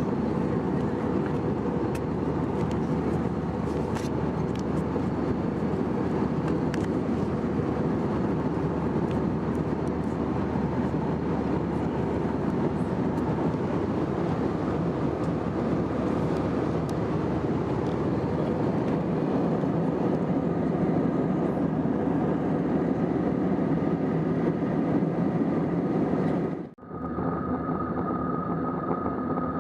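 Airbus A321 cabin noise in flight: a steady rushing hum of airflow and its IAE V2500 engines. It cuts out briefly near the end, and a slightly different steady hum with a thin high tone follows.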